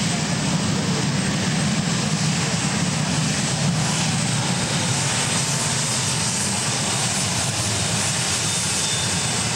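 Modified pulling tractor's engines running loudly and steadily, an even drone with no big rise or fall.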